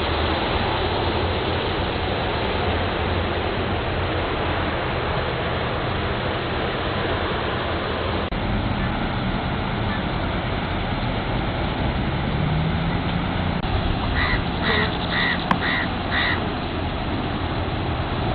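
Steady rushing noise with a low engine-like hum beneath it. About fourteen seconds in, five short, evenly spaced high-pitched notes sound in quick succession.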